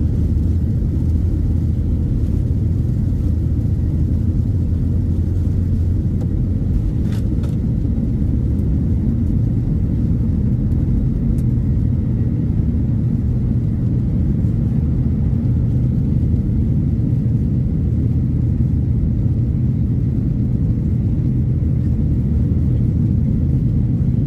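Boeing 737 takeoff heard from the passenger cabin: a loud, steady low rumble from the jet engines and the aircraft's run, with a brief faint click about seven seconds in.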